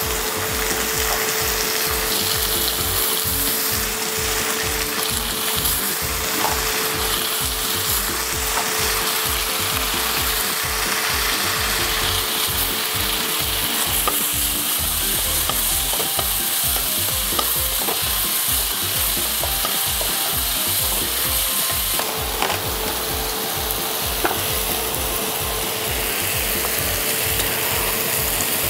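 Chopped vegetables sizzling steadily as they fry in butter in a metal kadai, with freshly added tomatoes. A wooden spatula stirs and scrapes them, with an occasional sharp knock of the spatula against the pan.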